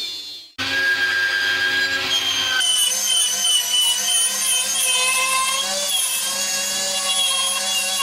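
A power tool's electric motor runs with a steady hum and a high whine that wavers in pitch as it is loaded. It starts abruptly after a brief gap about half a second in.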